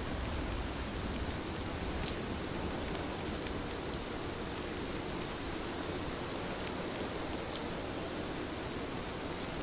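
Heavy rain falling steadily, with scattered sharper drop ticks.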